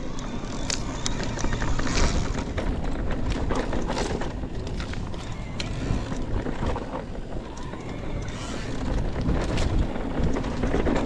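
Mountain bike riding down a dirt trail: steady rolling and wind noise with frequent short clicks and rattles from the bike.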